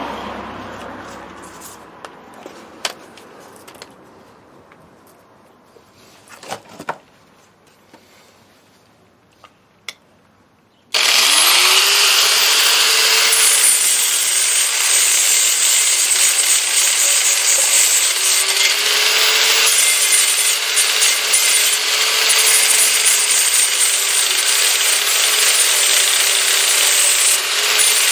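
Angle grinder fitted with an 80-grit sanding disc switched on about eleven seconds in, its motor spinning up and then running loud and steady as it sands rusty metal. Before it starts, only a few light clicks of handling.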